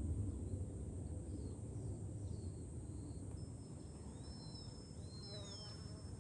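Wind rumbling on the microphone, easing off, over a steady high drone of cicadas and a few short bird chirps. A little past halfway a glass fūrin wind bell starts a sustained high ringing, and two arching bird calls follow near the end.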